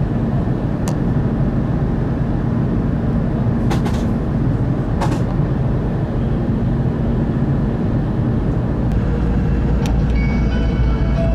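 Kyushu Shinkansen 800 series train running at speed: a steady low rumble with a few faint clicks. Near the end, music begins to come in.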